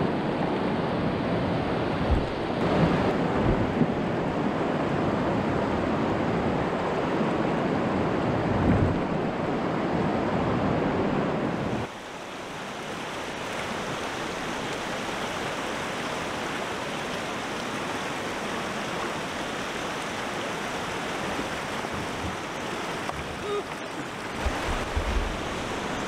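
Rushing river water running over a rocky shoal, a steady noise, with wind knocking on the microphone a few times. About twelve seconds in it drops abruptly to a quieter, steadier rush.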